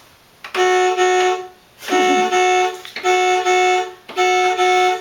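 Electronic sound from a toy ice cream truck: four loud, steady pitched tones in a row, each about a second long with a short gap between.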